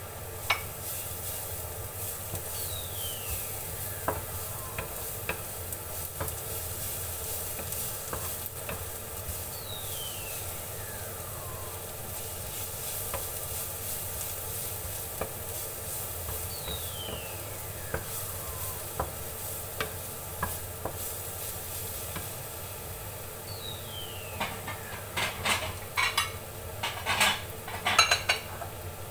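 Minced garlic and sliced onion sizzling in oil in a frying pan while a wooden spatula stirs and scrapes through it. Near the end a quick run of sharp knocks as the spatula clatters against the pan.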